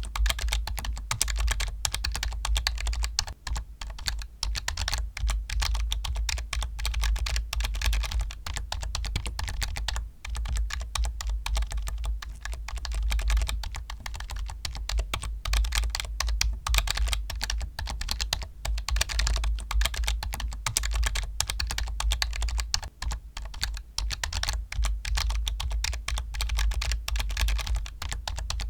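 Fast, continuous typing on a computer keyboard, a dense stream of key clicks with a few brief pauses, over a steady low hum.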